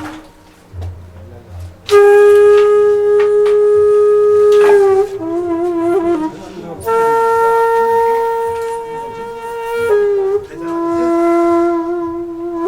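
Music on a flute-like wind instrument: long held notes with slides and a slight waver between pitches, coming in about two seconds in.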